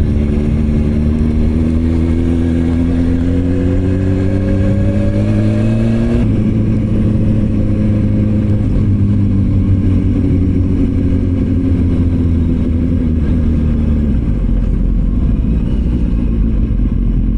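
Motorcycle engine accelerating, its pitch rising steadily for about six seconds, then a gear change with a sudden drop in pitch; after that the revs sink slowly and then hold steady.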